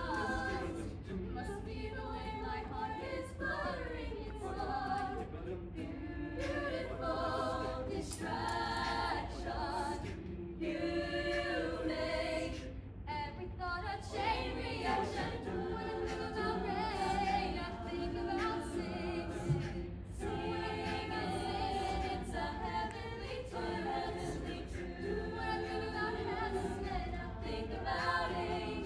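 Madrigal choir singing a cappella in several parts, voices moving together in harmony, over a steady low hum.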